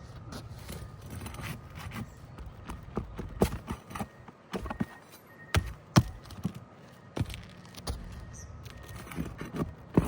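Irregular sharp metal taps, clicks and scrapes of hand tools working at asphalt roof shingles, the loudest click about six seconds in.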